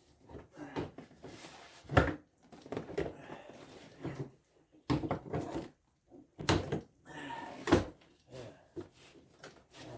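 Irregular knocks and thumps with stretches of scraping as a boat is shifted and set onto a wooden dolly frame, the loudest knocks about two seconds in and near the middle.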